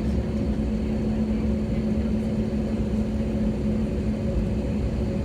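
Steady cabin noise inside an Airbus A320neo as it taxis after landing: an even low rumble with a constant hum from the engines at idle.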